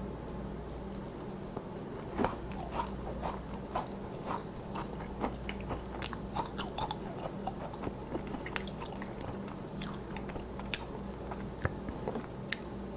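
Macaron being bitten and chewed close to a clip-on microphone: many small crisp crunches of the shell, with soft chewing.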